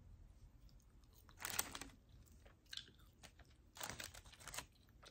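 A person biting into and chewing crispy fried Wingstop food close to the microphone: a crunchy bite about a second and a half in, a short one near three seconds, and a longer run of crunchy chewing near the end.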